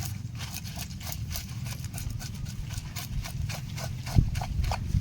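Knife cutting up a snakehead fish: a quick, irregular run of sharp taps and clicks, several a second, over a steady low rumble.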